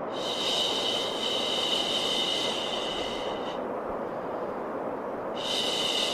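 A long, drawn-out 'shhh' shushing sound over steady white noise. The shush stops after about three and a half seconds and starts again near the end, as in a repeating soothing loop for a baby.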